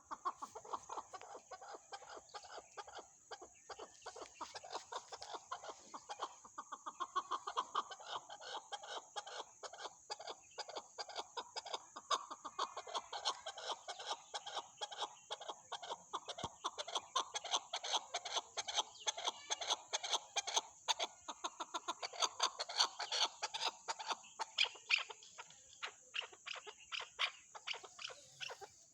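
Chukar partridges calling: a long, dense run of rapid, repeated clucking chuk notes.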